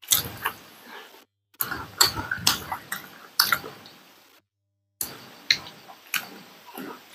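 Close-miked eating sounds from two people: wet chewing and lip smacks with sharp crunches in quick succession. The sound cuts out briefly at about a second and a half, and again for half a second a little before the five-second mark.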